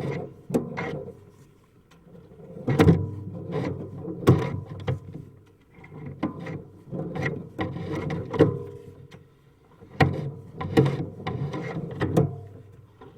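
Sewer inspection camera and its push cable being pulled back through the drain line: irregular scraping rumbles broken by sharp knocks as the camera head and cable strike the pipe.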